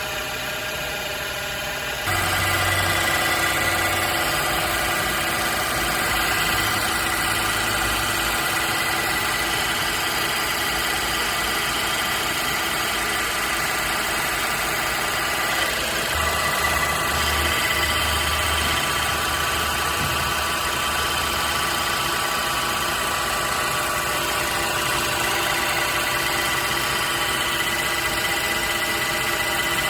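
Daihatsu Mira e:S three-cylinder engine idling steadily, with a thin continuous high whine over the running; it gets louder about two seconds in. This is the abnormal engine noise that inspection traced to the alternator.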